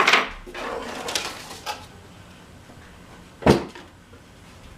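Handling noises in a small room: rustling or scraping at the start, then a single sharp knock about three and a half seconds in.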